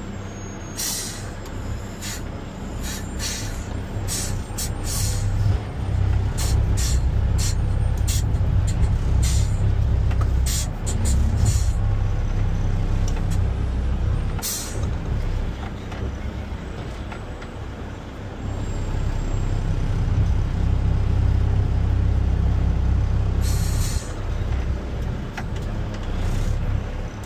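Front-load garbage truck's diesel engine revving up in two long swells, driving the hydraulics as a container is lifted and emptied. Short sharp air hisses come repeatedly through the first half and again about halfway through and near the end.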